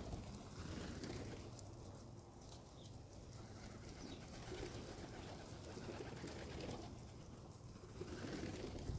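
Pigeons cooing softly, low calls repeating every few seconds.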